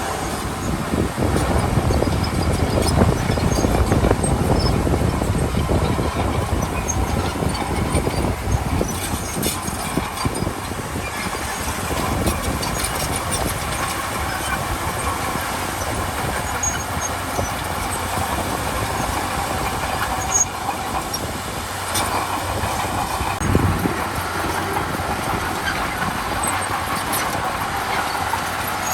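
Komatsu D31P crawler bulldozer working: its diesel engine runs steadily under load, with the clatter of its steel tracks and scattered clicks, and a sharper knock about three-quarters of the way through.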